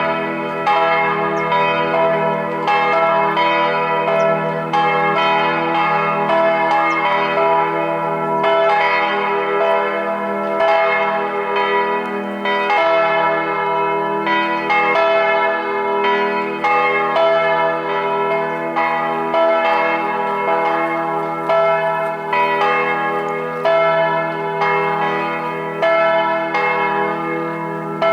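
Church bells pealing: repeated strikes about once a second, their long-ringing tones overlapping into a continuous sound.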